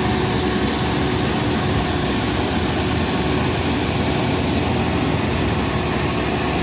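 Tractor engine running steadily under load, a constant low rumble with a steady drone.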